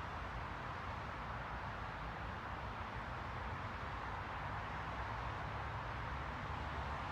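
Steady white-noise hiss, even and unchanging, with a faint low rumble underneath.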